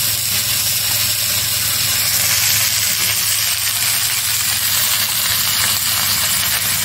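Chopped red amaranth greens (lal shak) sizzling steadily in hot oil in a karahi over a fire.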